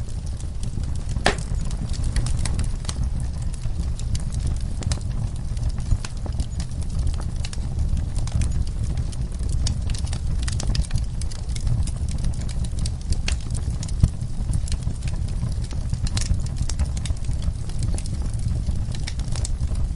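Wood fire crackling in a fireplace, with irregular sharp pops and snaps over a steady low rumble; one louder pop about a second in.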